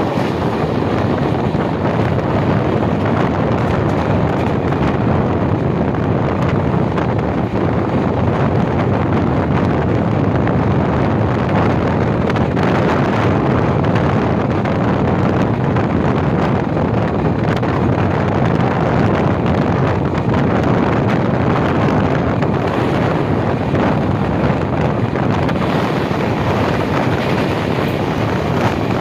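Mumbai suburban train running at speed, a steady unbroken rumble with wind noise on the microphone.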